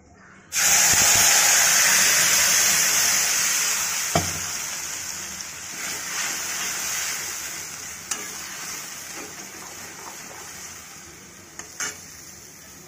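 Tomato, green chilli and ginger paste hitting hot oil in a metal kadai. It sizzles loudly all at once about half a second in, then fades slowly as it is stirred, with a few knocks of the metal spatula on the pan.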